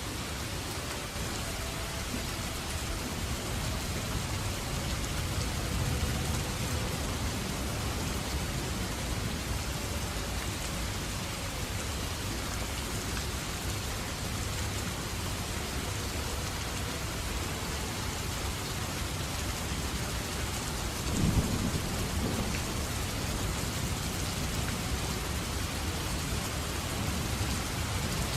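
Steady, dense rainfall in a thunderstorm, with low thunder rumbling underneath. A sharper, louder thunder crack comes about three quarters of the way through.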